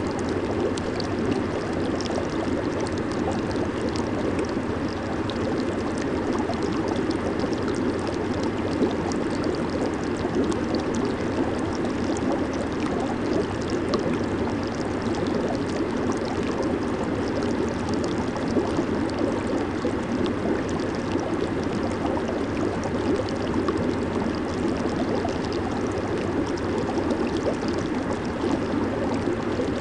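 Jacuzzi running: a steady, even rush of churning, bubbling water with a fine crackle over it.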